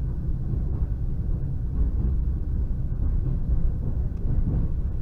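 Steady low rumble of an electric suburban train in motion, heard from inside the carriage: wheels running on the rails and the car body's running noise.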